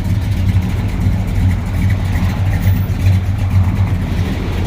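A 1963 Dodge 330's 426 cubic-inch V8 idling with a deep, steady exhaust note.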